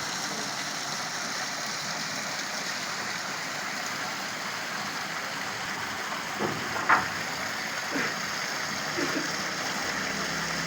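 Water from a garden fountain falling and splashing steadily, with a short, sharper sound about two-thirds of the way through.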